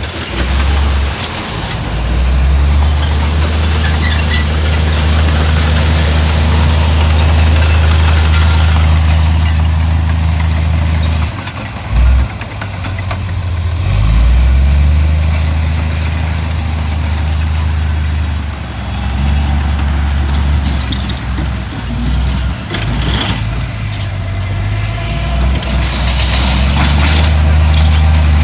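Heavy diesel engine of earthmoving machinery running under varying load, its low drone swelling and easing through the stretch, with a brief sharp peak about twelve seconds in and a few short hisses near the end.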